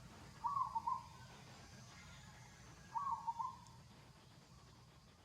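An animal call of two or three quick, hoot-like notes, given twice about two and a half seconds apart.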